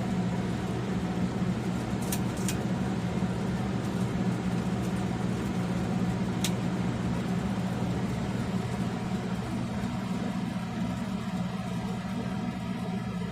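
Casablanca Zephyr 13-inch ceiling fan running with a steady motor hum. A few light ticks come about two seconds in and again around six seconds in.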